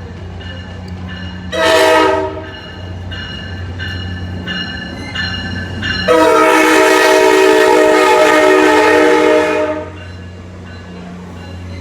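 A VRE commuter train's diesel locomotive sounding its horn: a short blast, then a long blast of about four seconds, over the steady drone of the locomotive's engine. A bell dings about twice a second between the blasts.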